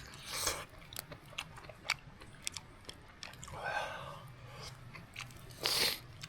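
A person chewing and biting food close to the microphone, with small scattered clicks and a few louder noisy puffs, the loudest near the end.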